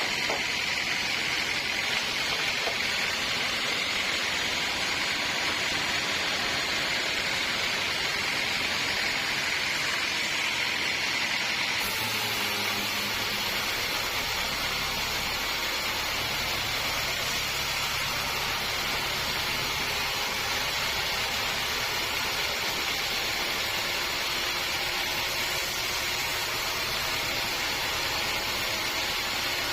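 Sawmill machinery running and sawing a log, a steady noisy sound; about twelve seconds in the sound changes and a low hum sets in underneath.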